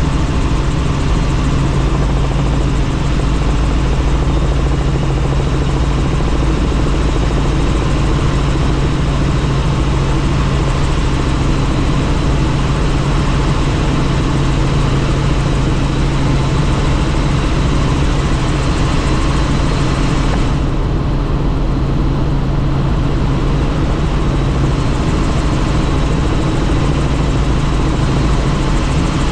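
Helicopter in flight: steady rotor and engine drone with a strong low hum and a hiss of rushing air. The hiss fades for a few seconds about twenty seconds in.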